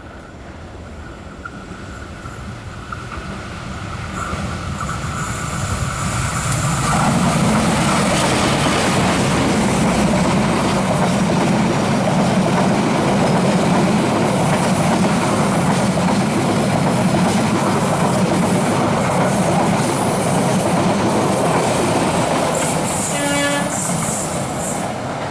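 A long train approaching and passing close by: wheels running over the rails, growing louder over the first seven seconds, then a loud, steady rumble and clatter of the cars going past. A thin held tone sounds over the first few seconds.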